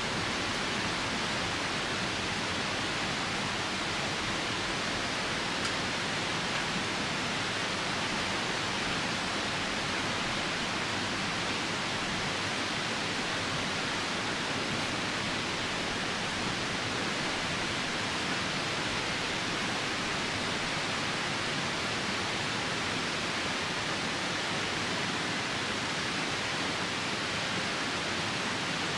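Steady rushing of a nearby river mixed with falling rain, an even wash of water noise with no breaks.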